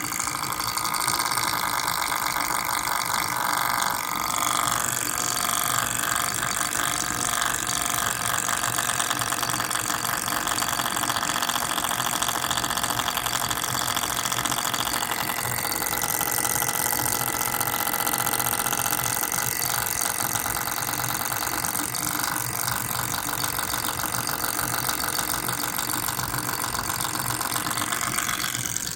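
MSI GS30 laptop cooling fan (Aavid PAAD07010SH N263) spinning with a steady mechanical rattle, the sign of a faulty fan. Its tone shifts about four seconds in and again about fifteen seconds in.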